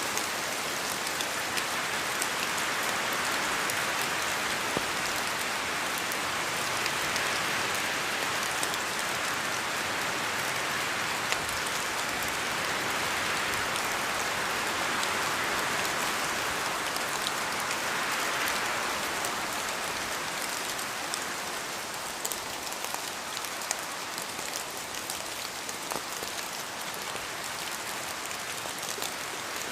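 Steady rain in a forest, with many separate drops falling from the trees and striking close by, heard as sharp ticks over a dense even hiss. It eases a little over the last third.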